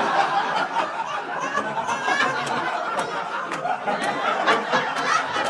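Live audience laughing hard after a punchline, with scattered clapping mixed in.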